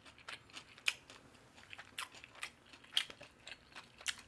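Close-miked chewing of crispy fried chicken: irregular crunches of the coating, with a few sharper ones about once a second, among quieter chewing.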